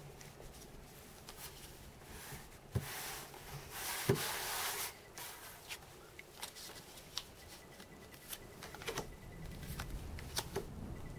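Pokémon trading cards being handled on a tabletop. About three seconds in there is a rustling burst as the cards are shuffled, then several light slaps as cards are laid down one by one.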